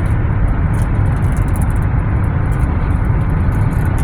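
Car driving along, a steady low road and engine rumble.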